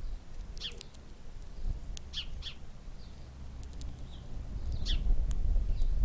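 Short high chirps from small birds, a few single notes and quick pairs scattered through, over a low rumble that grows louder near the end.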